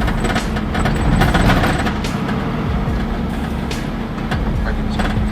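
A heavy vehicle's engine running steadily, with scattered knocks and clanks over it.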